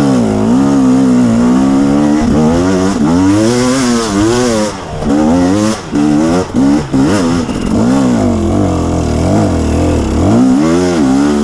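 Dirt bike engine revving hard, its pitch climbing and falling again and again as the throttle is worked, with a few brief drops about five to seven seconds in. It sounds like too much throttle being given on a slippery climb.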